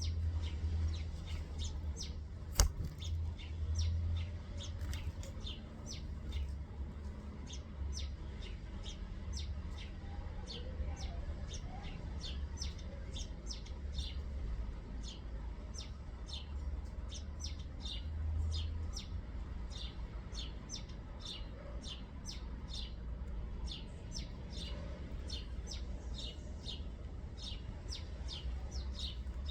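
Small birds chirping: many short high chirps, a few a second, throughout. A single sharp click about two and a half seconds in, over a steady low rumble.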